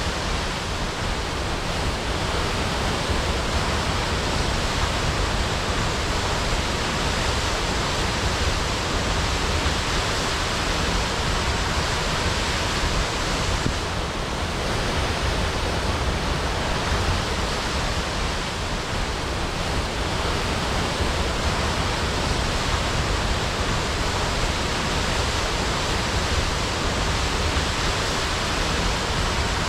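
Waterfall crashing: a steady, unbroken roar of falling water.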